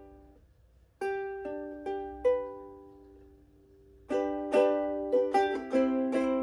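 Ukulele chord riffs played solo. A few plucked notes and chords ring out about a second in and die away, then a quicker run of strummed chords starts about four seconds in.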